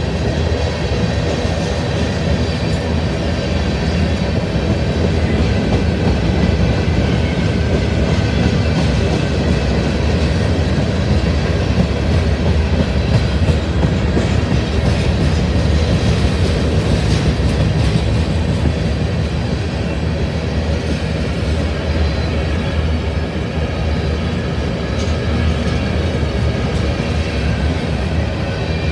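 Norfolk Southern freight train rolling past, its cars making a steady, unbroken rumble.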